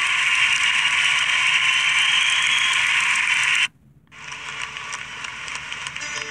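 Garbage truck machinery running with a loud, steady mechanical clatter and hiss. It cuts off abruptly a little past halfway, and a quieter stretch of similar machine noise follows.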